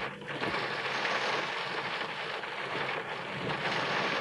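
Steady rain falling on a car, heard from inside as an even hiss.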